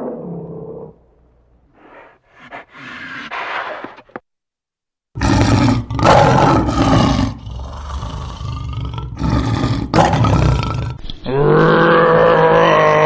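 Loud animal calls, roars and rough growl-like calls from a large animal, broken by a short silence about four seconds in; near the end a long pitched call swells and holds.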